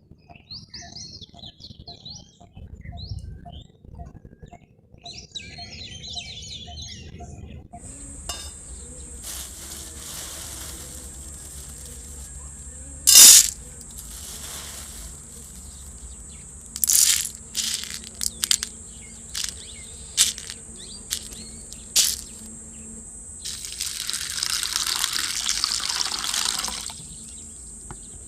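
Birds chirping, then from about eight seconds in a steady high insect drone. Several sharp knocks or clicks sound over the drone, and a few seconds of rushing, water-like noise come near the end.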